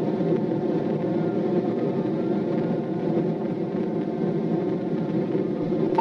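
Steady engine and road drone inside a police cruiser driving at high speed during a pursuit.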